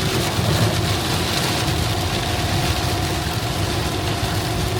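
Car running, heard from inside the cabin: a steady low rumble with an even hiss over it.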